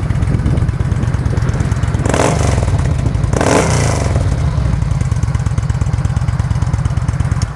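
2009 Yamaha V-Star 950's 950cc air-cooled V-twin running through an aftermarket 2-into-1 Cobra exhaust, with a steady low pulsing idle and two short rises in engine speed, about two and three and a half seconds in.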